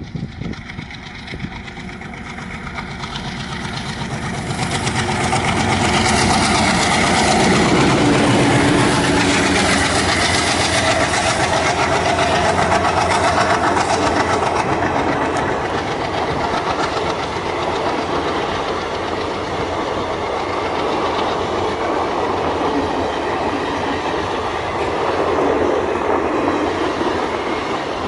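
ALCO diesel locomotive hauling a passenger train past at slow speed. It grows louder as it nears and is loudest about five to nine seconds in, and then the coaches' wheels keep up a steady rolling sound on the rails.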